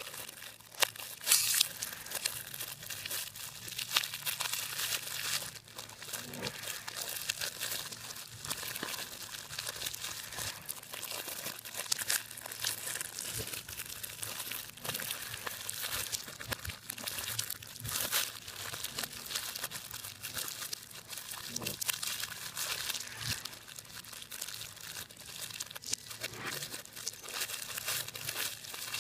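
Hands crumpling and crunching a dry, crackly material: a continuous, irregular crinkling with many small sharp crackles and occasional louder crunches.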